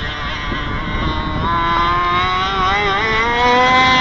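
MTC twin engine in a Falcon catamaran running at high revs, its pitch climbing steadily with a short dip about three seconds in.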